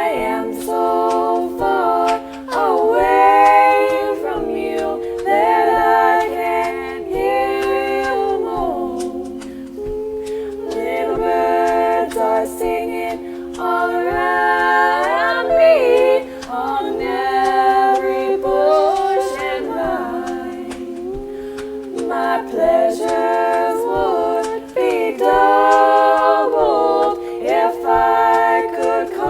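Unaccompanied voices singing a cappella in harmony, one voice holding a steady low note beneath a moving melody line.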